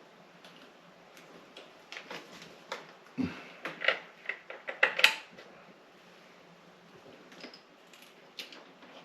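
Irregular clicks and rattles of small hard plastic parts being handled as wire connectors are pushed back onto a refrigerator water valve. The clicks cluster thickest and loudest in the middle, with a few more near the end.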